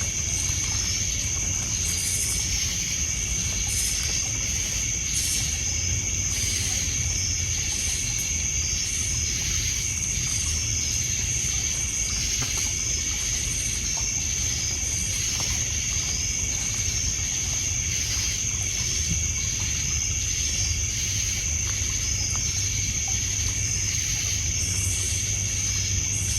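Night ambience of crickets trilling steadily on one high note, with a pulsing chorus of other calls around it, over water lapping on a pebble beach. A few faint crackles from a campfire.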